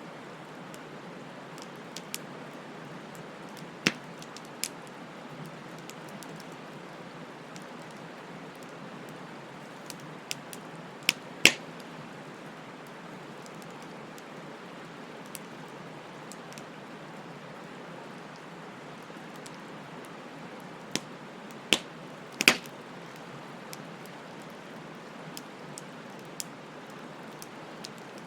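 Wood fire burning: a steady hiss with scattered sharp crackles and pops, the two loudest pops coming about a third of the way in and again about two thirds of the way in.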